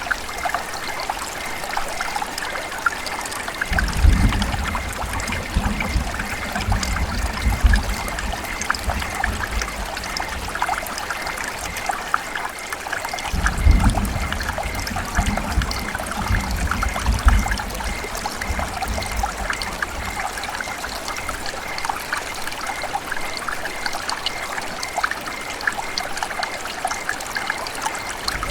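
River water running and trickling, a steady rush full of small splashes, with a low rumble that comes in twice, from about four seconds in and again from about thirteen seconds in.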